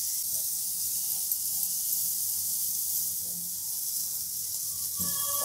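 Chopped vegetables frying in butter in a steel kadai over a low-medium flame: a soft, steady sizzle as a silicone spatula stirs them. A short ringing sound comes in near the end.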